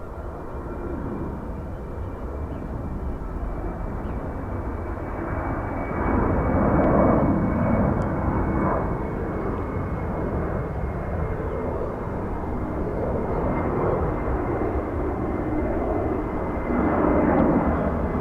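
Jet airliner engines running as the aircraft passes, the noise building and becoming loudest about six seconds in, with a steady high whine over a low rumble.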